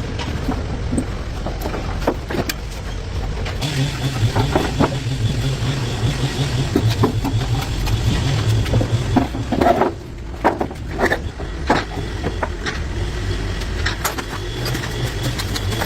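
A machine running with a steady low drone, with scattered short metallic clicks and knocks over it; the drone dips briefly about ten seconds in.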